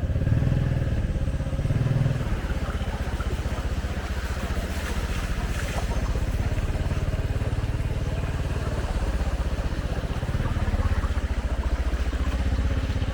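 Motorcycle engine running steadily, with an even low pulsing, the level rising and falling a little.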